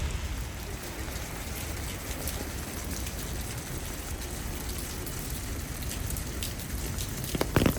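Steady rain falling, an even hiss with scattered drop ticks; a few louder sharp taps come near the end.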